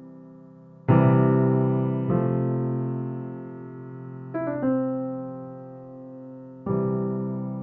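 Background music: slow piano chords, each struck and left to fade.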